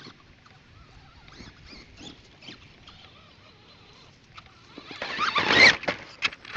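Electric RC monster truck with a brushed motor on a 3-cell lipo, driven in a burst about five seconds in: a loud spell of whining motor and scrabbling tyres, followed by a few sharp clicks. Before that there are only faint scuffs and ticks.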